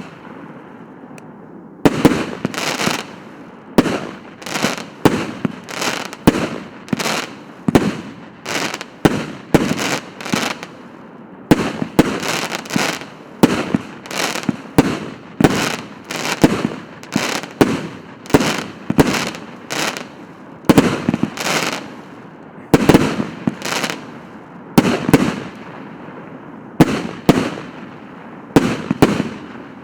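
A 150-shot, 1.2-inch firework cake (roman candle battery) firing shot after shot, about one to two reports a second, each with a short fading tail. The firing starts about two seconds in after a brief pause and keeps up, slowing a little near the end.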